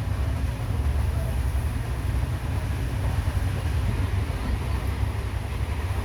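Steady low rumble of a passenger train.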